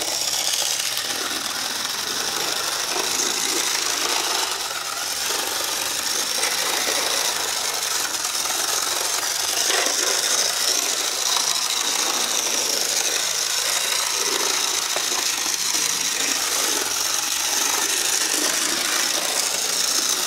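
HO scale Santa Fe 350 model locomotive running steadily on its track. Its small electric motor gives a steady high whine over a rattle and scattered clicks from the wheels on the rails.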